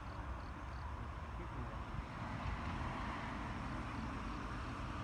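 Steady outdoor background noise: a low rumble with an even hiss, with no distinct bangs or other events.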